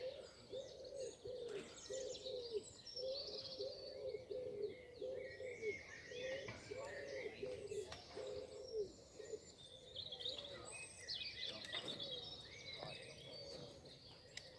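A pigeon cooing: a long run of repeated soft notes for about nine seconds, then stopping, with small songbirds chirping and twittering over it throughout.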